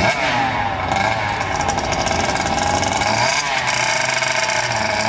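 Small dirt bike engine revving, its pitch rising and falling.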